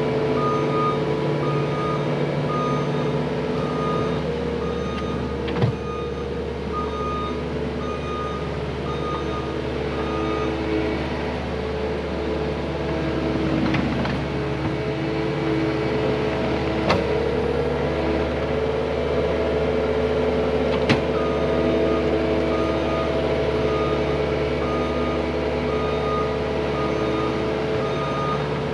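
Heavy diesel equipment running steadily while its backup alarm beeps about once a second; the beeping stops partway through and starts again near the end. A few sharp knocks are heard along the way.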